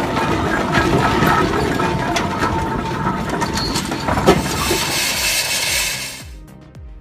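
An old engine running with a dense mechanical clatter of clicks and knocks. It cuts off about six seconds in, and quieter background music with a beat follows.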